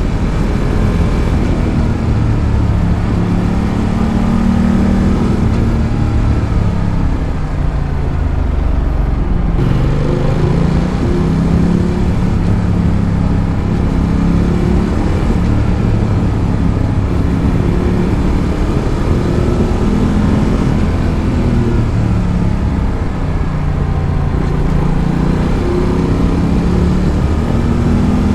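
Ducati Multistrada 1200's L-twin engine running under way, picked up close to the exhaust, its pitch rising and falling again and again as it accelerates and eases off through the bends.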